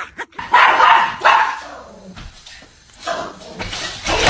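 A dog barking, with two loud barks about a second in, followed by quieter sounds.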